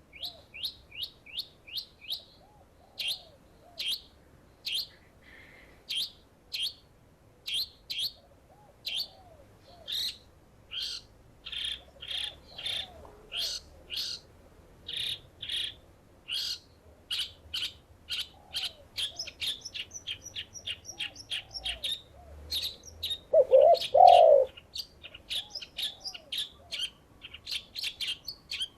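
A songbird giving short sharp chirps over and over, about two a second and coming faster in the second half, over soft dove cooing. About three-quarters of the way through, one coo stands out louder, in two parts.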